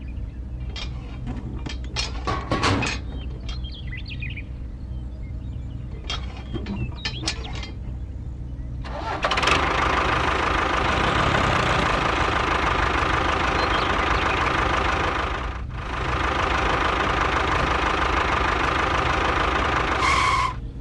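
An engine runs low and steady under scattered clicks and knocks. About nine seconds in, a much louder engine starts up and runs steadily, dropping away briefly for a moment near the middle of that stretch.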